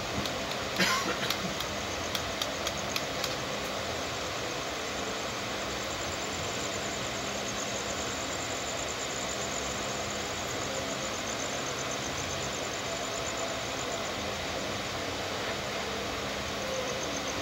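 Steady running noise of an Indian Railways passenger train heard from an open coach door, with a sharp burst of clicks about a second in and a few more clicks over the next two seconds as the wheels pass over rail joints and points.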